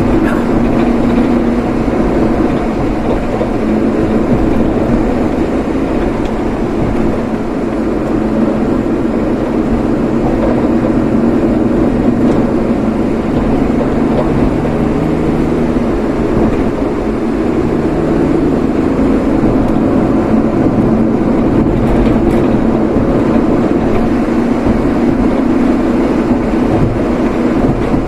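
A moving vehicle's steady engine and road noise, running evenly without change.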